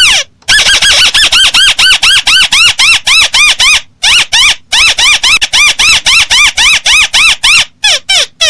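Recorded crake (burung tikusan) call played as a bird-trapping lure: a rapid series of arched notes that rise and fall, about five a second, with short breaks near the middle and near the end.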